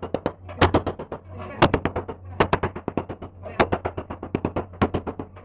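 Body hammer knocks on car body sheet metal during dent straightening: a fast, uneven run of sharp blows, several a second, some much louder than others, over a low steady hum.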